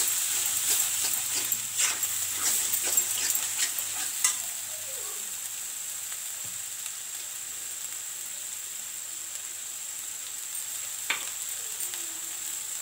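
Steel spatula scraping and stirring onion masala in an iron kadai for about four seconds, then the masala frying in oil with a steady sizzle. One sharp click near the end.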